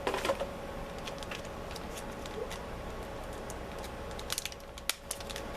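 Light clicks and taps of small wires and parts being handled on a workbench, scattered, with a cluster at the start and several more near the end, over a faint steady hum.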